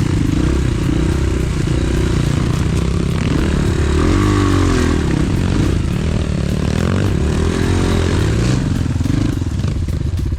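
Off-road pit bike engine running hard, revved up and down several times as the throttle is opened and closed.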